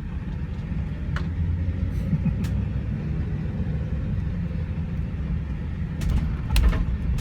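Ford E-series van driving, with a steady low engine and road rumble. A few short knocks or rattles come through, the loudest cluster near the end.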